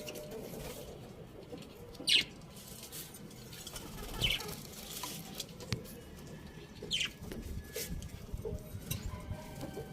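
Budgerigars chirping: three short, sharp chirps about 2, 4 and 7 seconds in, with softer chirps and scattered light ticks and rustling between them.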